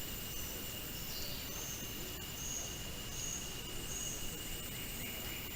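Insects droning steadily with a high, even pitch over a hiss of outdoor ambience, while a short high chirp repeats about once a second.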